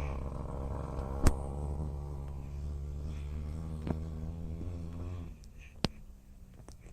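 Small dirt bike engine running steadily with a low drone, which stops about five seconds in. A few sharp clicks sound over it, the loudest about a second in.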